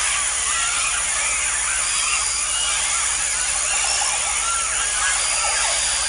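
A large flock of birds calling all at once, a dense, unbroken chatter of many short overlapping chirps and squeaks, over a steady high hiss.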